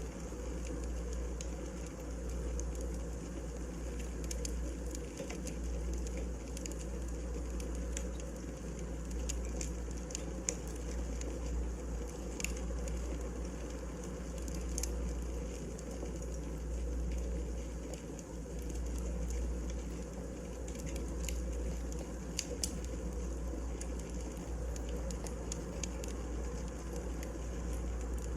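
Firewood burning in a fireplace, crackling with scattered small sharp pops over a steady low rumble.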